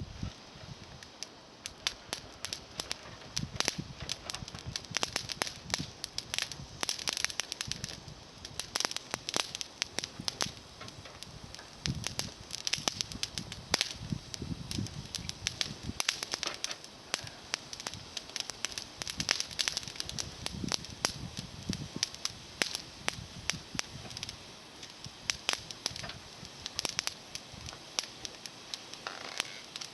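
Small bonfire of climbing-rose twigs crackling, with many irregular sharp pops and snaps.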